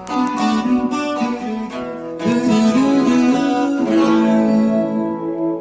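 Acoustic guitar being strummed and picked: a run of chords closing out a song.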